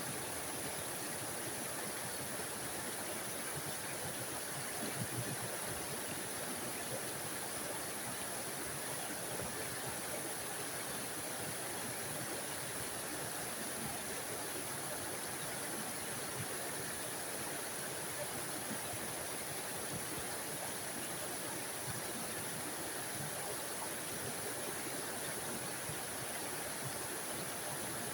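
A small forest waterfall: water falling and splashing in a steady, even rush with a bright hiss on top.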